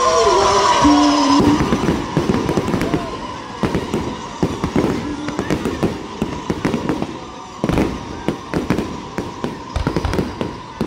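Fireworks going off in quick succession: many sharp bangs and crackling pops, starting about a second and a half in, with one heavier bang about three quarters of the way through.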